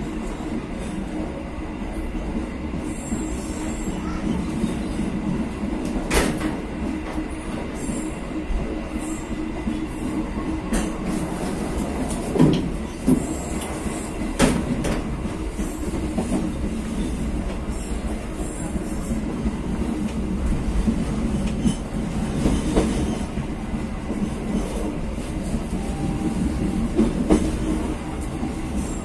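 A train running along the track, heard from its rear end: a steady rumble of wheels on rail, broken by several sharp clicks, the loudest about twelve and fourteen seconds in.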